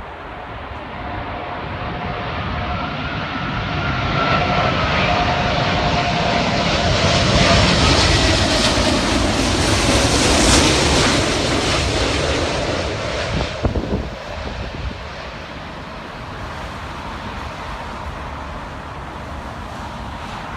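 A jet airliner on its landing approach passes by. Its engine whine grows louder, peaks about halfway through, then fades away by about two thirds of the way through, with its tones falling in pitch as it goes. A steady rumble of wind on the microphone runs throughout.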